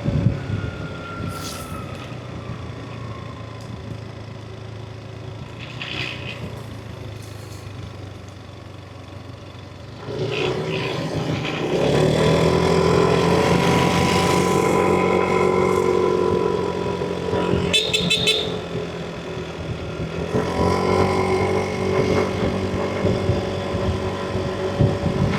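Yamaha NMAX V3 scooter's single-cylinder engine on the move, recorded from the rider's seat. For the first ten seconds or so it runs softly with its pitch sinking, as if coasting. It then picks up and runs louder and steady under throttle, with road noise. A brief run of rapid high-pitched pulses comes around the middle.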